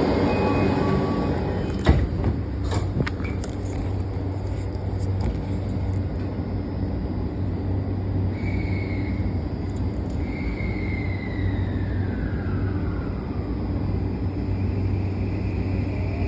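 Tokyu 3020 series electric train heard from inside the car: a steady running rumble and low hum, with a sharp knock about two seconds in and a few clicks after it. Later a motor whine falls in pitch over a few seconds.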